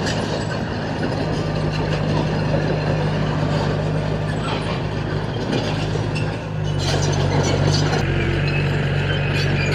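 Heavy diesel engine of an earthmoving machine running steadily, with scattered metal clanks and rattles. A little past the middle the engine dips briefly, then settles on a slightly different note.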